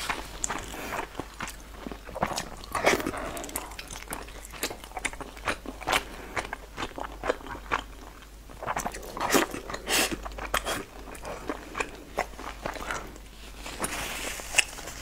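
Close-miked eating: chewing and biting, an irregular run of wet clicks and crunches from the mouth.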